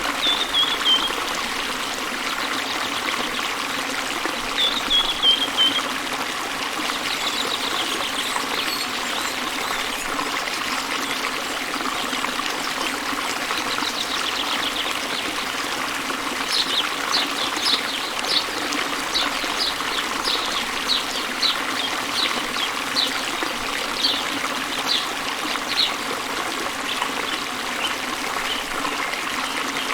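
Steady rushing of a small waterfall spilling into a river, with a bird singing over it: a short falling phrase twice in the first six seconds, then a run of repeated high notes from about the middle, spacing out toward the end.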